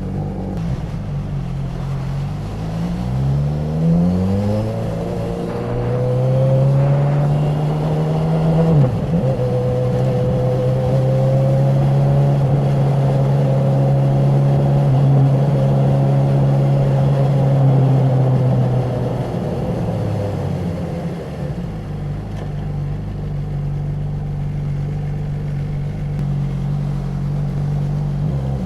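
Honda CB1000R's inline-four engine and exhaust under way. It pulls up through the revs from a low steady note, dips briefly at a gear change about nine seconds in, and holds a steady higher note for about ten seconds. It then drops back as the throttle closes, runs low, and starts climbing again at the very end.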